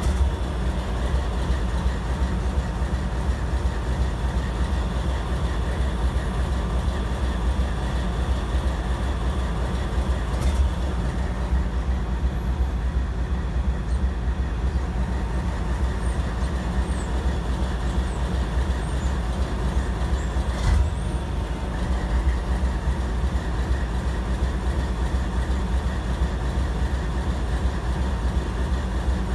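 Freight train working in a rail yard: a steady low rumble of the moving train, with a sharp knock about ten seconds in and another about twenty-one seconds in.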